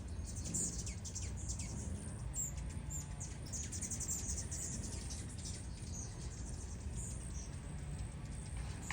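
A bird calling with many short, high chirps in quick irregular series, over a steady low rumble.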